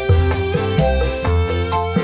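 Live Orkes Melayu (dangdut) band playing an instrumental passage with a steady beat: cymbal ticks about four a second over a bass line and a sustained melody.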